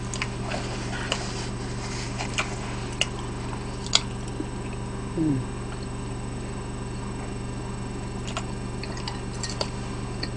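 Close-miked chewing and mouth sounds of someone eating pizza, with a few faint scattered clicks and a light tap of chopsticks near the end, over a steady low hum.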